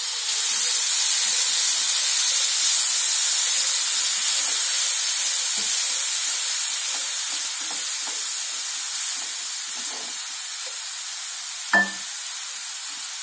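Wet spice paste sizzling in hot mustard oil in a nonstick frying pan as it is stirred with a spatula. The sizzle jumps up as the paste goes in and slowly dies down. A short tap near the end.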